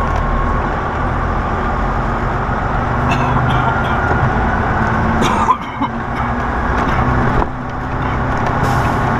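Semi truck's diesel engine running, heard from inside the cab as a steady drone that dips briefly twice in the second half.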